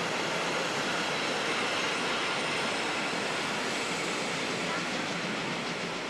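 Historic railway passenger coaches rolling past close by: a steady rush of wheels on rails, easing a little near the end as the last coach draws away.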